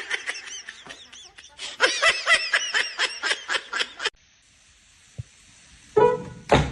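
A person laughing in a rapid run of high-pitched bursts for about four seconds, then after a quieter pause a short, loud voiced sound near the end.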